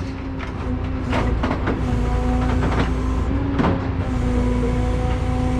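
Truck's diesel engine running steadily with a low drone while the truck creeps into position, with a few sharp knocks and clanks scattered through it.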